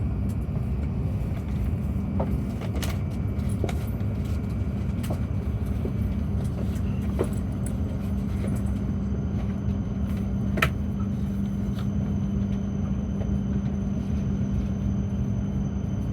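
Steady running rumble of a moving vehicle, with a constant low hum and a few faint clicks.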